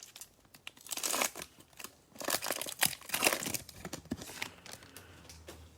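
Plastic cello-pack wrapper of Prizm baseball cards crinkling and tearing as the pack is opened, in a few crackly bursts.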